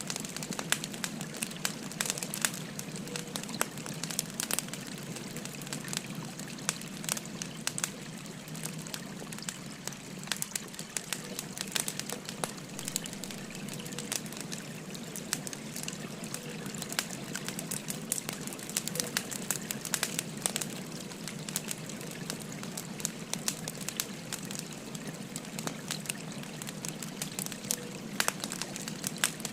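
Wood fire crackling, with frequent sharp irregular crackles, over the steady rush of a flowing stream.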